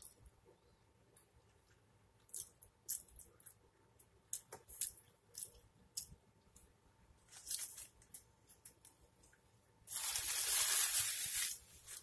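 Close-up mouth sounds of chewing a bite of pizza: scattered sharp wet clicks and lip smacks. About ten seconds in, a paper napkin rustles loudly for about two seconds.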